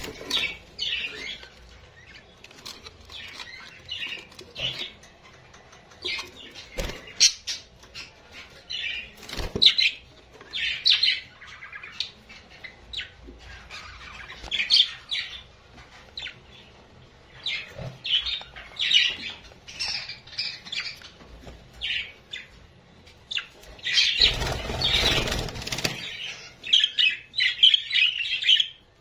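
Small cage birds chirping in short, repeated high calls, with scattered clicks and light handling noise. About 24 seconds in, a loud rustling burst lasts about two seconds.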